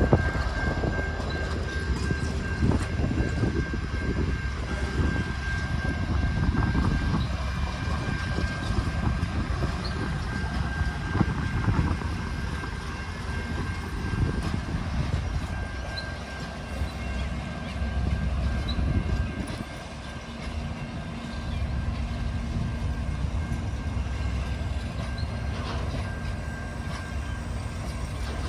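Alaska Railroad passenger train moving past, a steady low rumble from its EMD diesel locomotives and cars, with a thin high tone held throughout.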